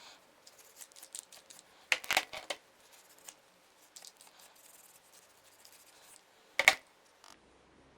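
Small parts and hand tools being handled during bicycle work: scattered light clicks and scrapes, with sharper knocks about two seconds in and a single loud click near seven seconds.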